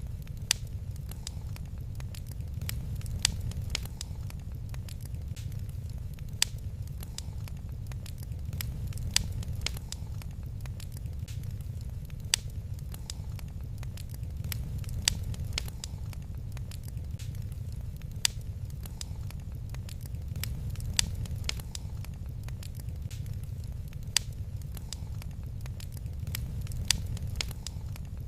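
Wood fire in a fireplace crackling: many small sharp pops over a steady low rumble, with a louder pop about every three seconds.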